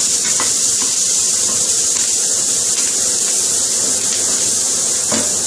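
Chopped onion sizzling in hot vegetable oil in a frying pan, a steady hiss, with a couple of light knocks of the spatula against the pan, one about half a second in and one near the end.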